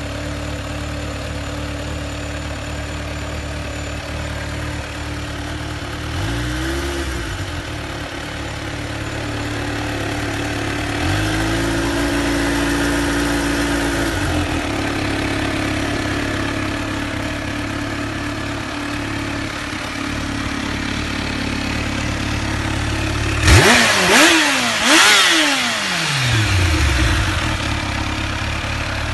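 Kawasaki Ninja H2's supercharged 998 cc inline-four idling while being revved by hand: a short blip about six seconds in, then revs held up for about three seconds. Near the end come several quick, sharp throttle blips that fall back to idle; these are the loudest part.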